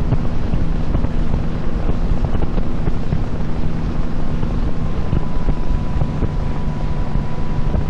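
Boat engine running steadily under way, with wind buffeting the microphone. A thin steady whine comes in about five seconds in.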